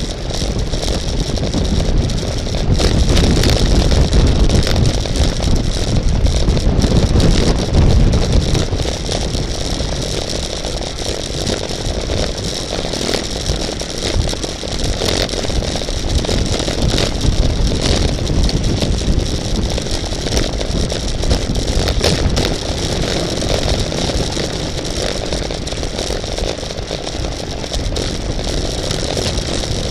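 Wind rushing over the microphone of a camera riding on a road bicycle at racing speed, mixed with the rattle of tyres and bike on the road. The low buffeting is heaviest in the first nine seconds or so, then eases to a steadier rush.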